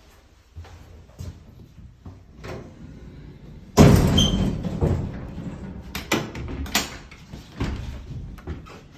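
An old elevator's door slides and bangs shut about four seconds in, preceded by a few light knocks and followed by several metal clanks and rattles.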